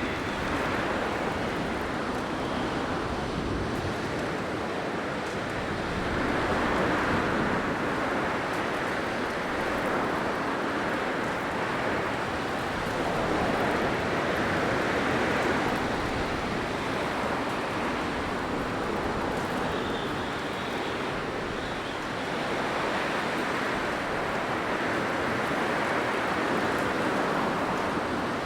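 Blizzard wind blowing as a continuous rush of noise that swells and eases in slow gusts every few seconds.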